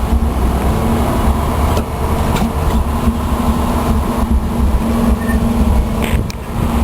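Car engine running: a steady low rumble with a constant hum and a few light clicks.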